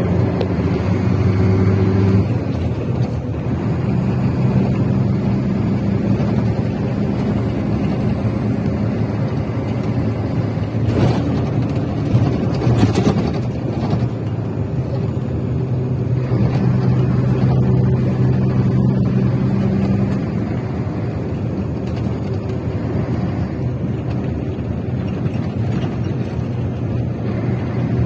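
A vehicle's engine running steadily, a low drone that shifts in pitch a few times, over continuous travel noise, with a couple of brief knocks about eleven and thirteen seconds in.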